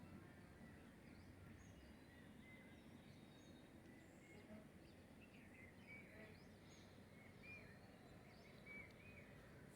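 Near silence: faint outdoor background hiss with small birds chirping, the short chirps coming more often in the second half.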